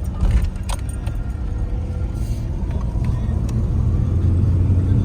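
Truck engine and road rumble heard from inside the cab, steady and swelling slightly near the end, with a few light clicks and jingles like keys or tags rattling.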